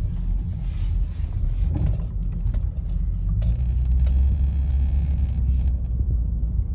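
Low, steady rumble of a 2006 car's engine and road noise heard inside the cabin while driving, swelling a little partway through.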